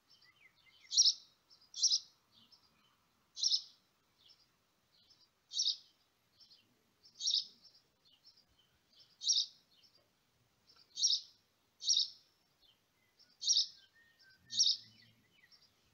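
A bird chirping repeatedly: short, sharp, high chirps every second or two, often in pairs.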